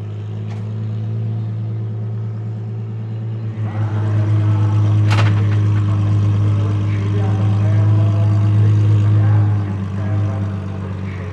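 Apollo Intensa Emozione's 6.3-litre naturally aspirated V12 idling steadily, with a single sharp click about five seconds in.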